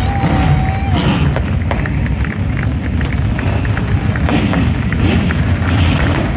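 A steady, loud low engine rumble with indistinct voices over it.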